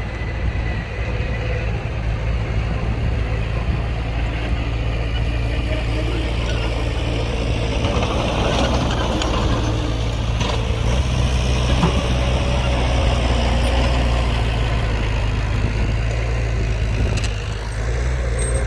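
Heavy diesel engine of construction machinery running with a deep, steady rumble that swells a little past the middle.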